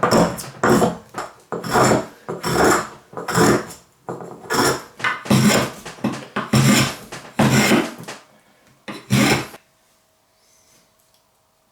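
Repeated scraping strokes of a hand tool being worked back and forth, about two strokes a second, stopping about nine and a half seconds in.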